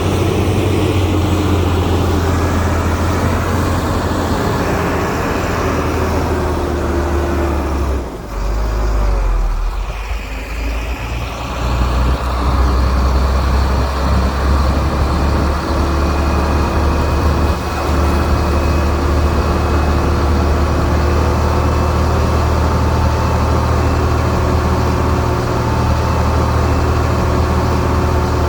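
Heavy earthmoving machine's diesel engine running steadily under load, with a deep drone and a faint steady whine. The engine drops off briefly about eight seconds in and picks back up about four seconds later.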